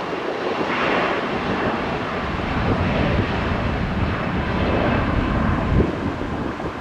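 Jet airliner engines running loud, a dense rumble and roar with the low end strengthening after about two seconds.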